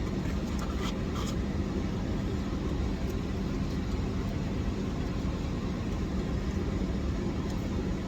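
Steady low rumble of a vehicle with an even hum, as heard from inside a parked car's cabin. A few faint clicks come about a second in.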